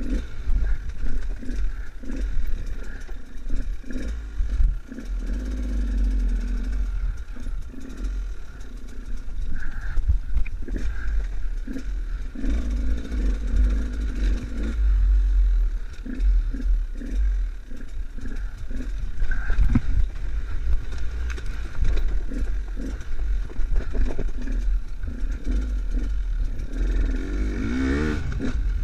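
Enduro motorcycle engine running and revving, its pitch rising and falling, with a heavy low rumble, knocks and rattles throughout, and a rising rev near the end.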